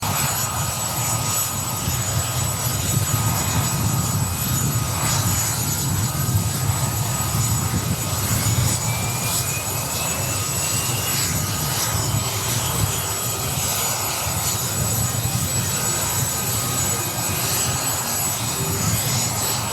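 CH-47 Chinook twin-rotor helicopter running, its twin turboshaft engines giving a steady low drone with a thin high whine over it. About halfway through, a faint whine rises slowly in pitch.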